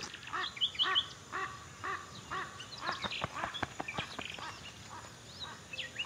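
A bird calling in a series of short, repeated notes, about two a second, with fainter high chirps among them.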